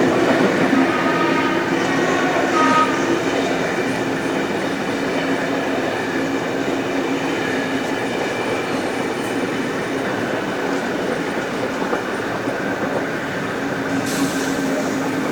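A passenger train running on the rails with a steady rumble and rattle. Thin squealing tones sound in the first few seconds, and a higher hiss joins near the end.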